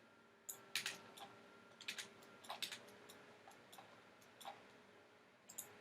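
Irregular clicks of a computer mouse and keyboard, about a dozen, some in quick pairs, over a faint steady hum.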